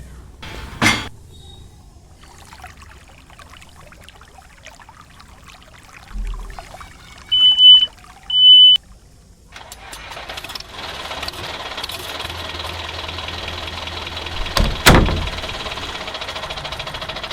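Two short, loud, high beeps, then a motor starts and runs steadily with a sharp knock partway through.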